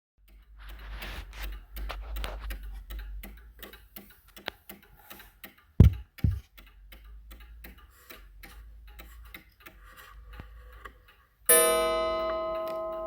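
Early-1920s Seth Thomas beehive mantel clock ticking steadily, with two dull thumps about six seconds in. Near the end, the clock's striking mechanism sounds one ringing strike that slowly dies away.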